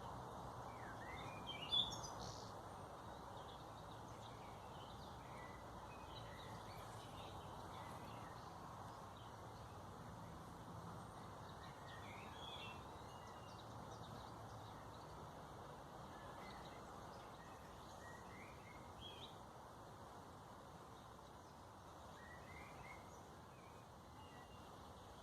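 Scattered short bird chirps and calls over a faint, steady background hum, with one louder chirp about two seconds in.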